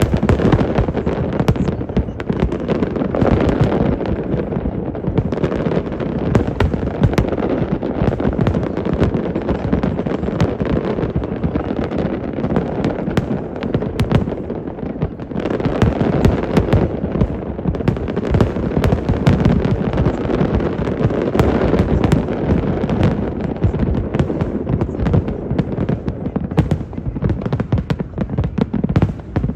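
A fireworks display going off in a dense, continuous barrage of bangs and crackles, easing briefly about halfway through before building again.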